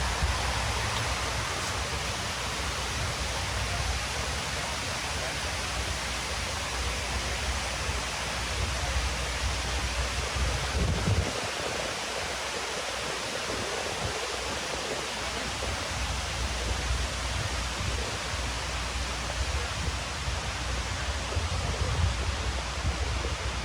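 Continuous rushing of water falling down the walls of a 9/11 Memorial reflecting pool: a steady, even hiss, with a low rumble underneath that drops away for a few seconds near the middle.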